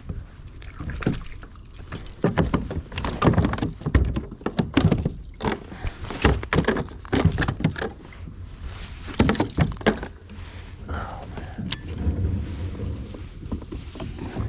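Irregular knocks and thuds against a kayak hull, with handling noise, while a big smallmouth bass is fought and landed beside the boat.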